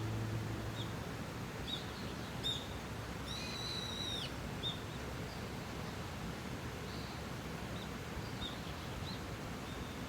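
Small birds calling outdoors: short high chirps every second or so and one longer call, level and then dropping at its end, about three and a half seconds in, over a steady outdoor hiss. Background music fades out in the first second.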